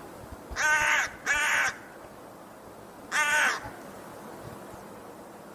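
Crows cawing: three harsh caws, two in quick succession and a third about a second and a half later.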